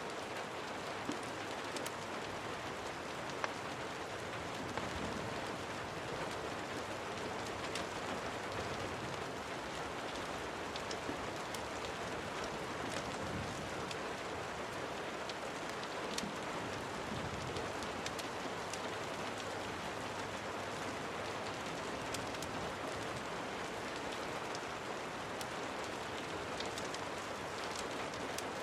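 Steady rain falling on a surface, an even hiss with scattered faint ticks of individual drops.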